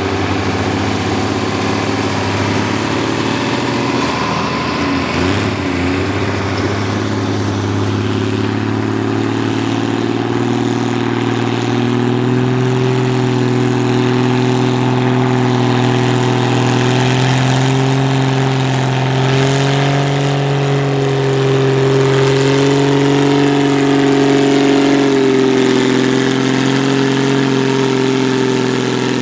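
Pulling tractor's engine running hard and steady under load during a pull, its pitch creeping slightly higher and then holding.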